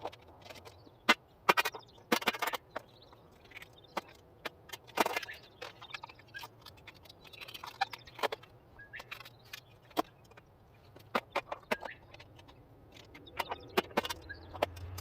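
Scattered light clicks and knocks at irregular times, with a faint low hum underneath.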